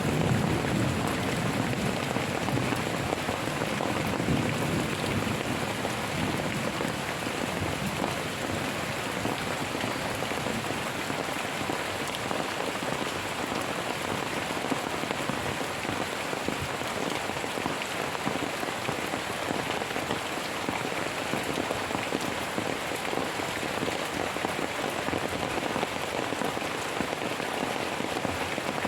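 Steady heavy rain falling, a dense even patter, with a low rumble of thunder fading out in the first few seconds.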